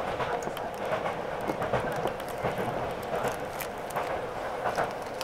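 Electric commuter train running at speed, heard from inside the carriage: a steady rumble of wheels on the rails with scattered clicks and rattles.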